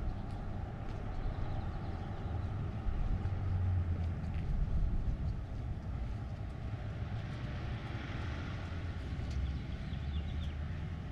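Road traffic: a car passes on a residential street, its tyre and engine noise swelling to a peak about eight seconds in over a steady low rumble.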